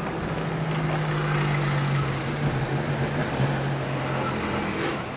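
Car engine running at low, steady revs while the car rolls along, over road noise; the engine note drops a little about three seconds in.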